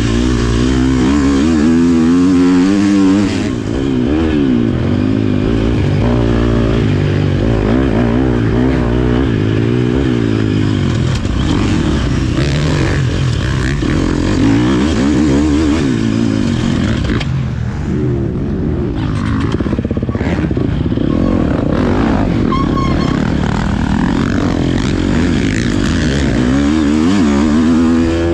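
Motocross bike engine revving up and down repeatedly as it is ridden round the track, the pitch rising and falling with the throttle, easing off briefly about two-thirds of the way through.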